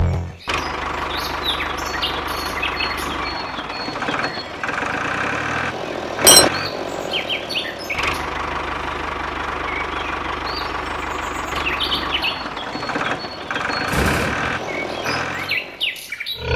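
A mini water pump's small engine running steadily, with birds chirping. A sharp knock comes about six seconds in.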